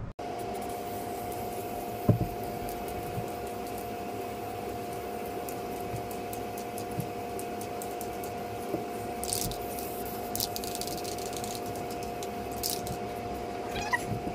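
A steady motor drone with two held tones, like a fan running in the garage. A few short hisses about two-thirds of the way in fit bursts of aerosol spray adhesive being sprayed onto the backs of the foam floor pieces.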